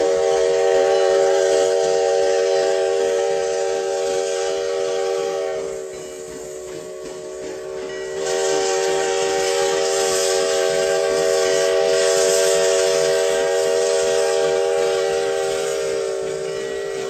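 Steam whistle of Sierra No. 3, a 4-6-0 steam locomotive, blowing a long chord of several notes over hissing steam. It eases off for about two seconds near the middle, then opens up loud again and tapers near the end.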